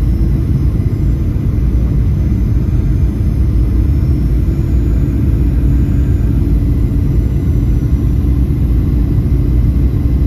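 Steady low drone of an aircraft in flight heard from inside the passenger cabin: engine and airflow noise with no breaks.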